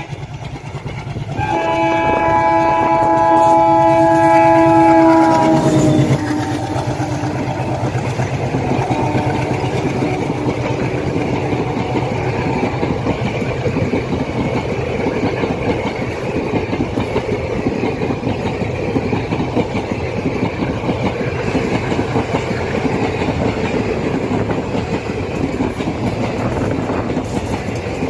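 WDM3A diesel locomotive passing at speed, sounding a multi-tone horn for a few seconds whose pitch drops as it goes by. Then the long rake of passenger coaches rolls past with a steady rumble and clickety-clack of wheels over rail joints.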